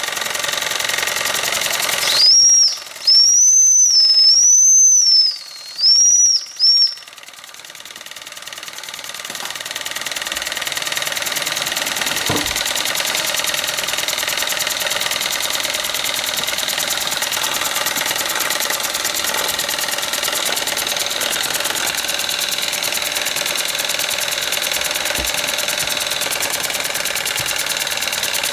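Small steam engines running with a fast, even beat. About two seconds in, a small steam whistle blows one long, high, wavering note and then two short toots. After that the engines' running sound builds back to steady.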